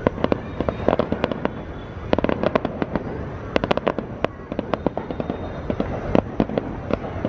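Fireworks display: many sharp bangs and cracks in quick, irregular succession, coming in dense clusters over a steady low rumble.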